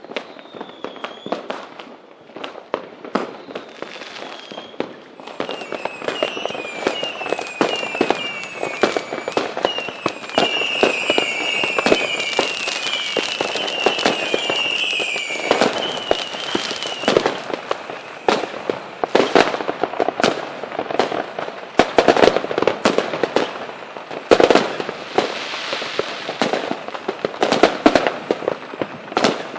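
Fireworks going off in rapid succession with sharp bangs and crackling. From about six to seventeen seconds in, there is a run of short, repeated falling whistles. After that the bangs come denser and louder.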